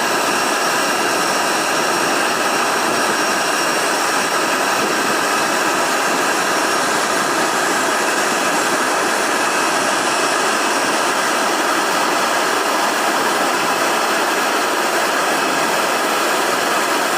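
Boeing 737 MAX's CFM LEAP-1B turbofan engines running steadily: a constant rushing noise with a faint high whine over it.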